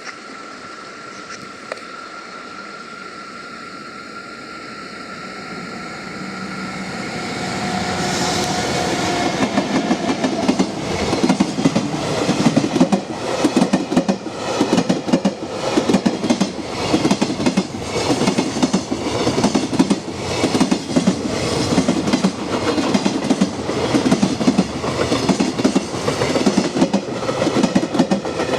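A JR Freight EF64 1000-series electric locomotive and its container freight train approaching and passing close by. It builds up over the first several seconds, then becomes a long, fast run of wheel clickety-clack over rail joints as the wagons go by.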